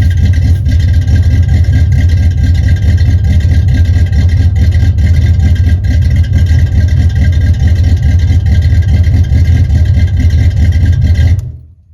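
A 1978 Chevrolet El Camino's small-block V8 with a big cam, idling cold with a lumpy, uneven beat and no choke. It cuts off suddenly near the end.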